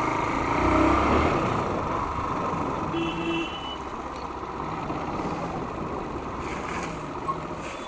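A motor vehicle engine running amid steady road noise, with a short pitched beep about three seconds in.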